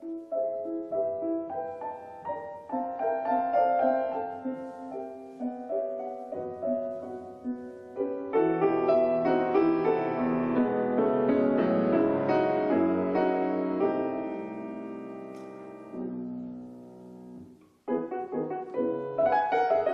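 Solo classical piano piece played on an 1864 Julius Blüthner grand: a melodic passage that swells into a louder, fuller stretch in the middle, fades away to almost nothing, then starts again with fresh chords near the end.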